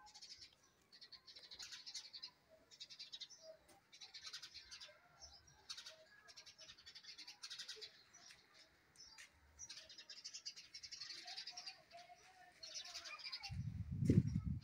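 Birds chirping in short, irregular bursts. A brief low rumble comes near the end.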